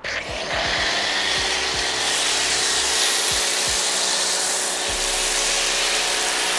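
Pressure washer running with a foam cannon spraying foam: a loud, steady hiss that starts suddenly as the spray begins.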